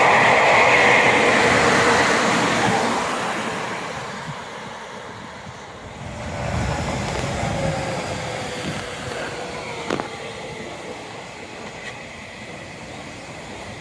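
Tobu Tojo Line electric train passing, loud at first and dying away over about four seconds. A second swell of low rumble follows about six seconds in, with a sharp click about ten seconds in.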